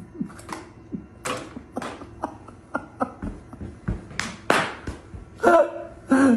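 A run of short, irregular taps and knocks, with two brief pitched sounds near the end.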